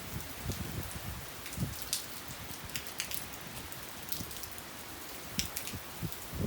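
Steady rain in a thunderstorm, with single drops ticking sharply on a nearby surface every so often and soft low gusts now and then.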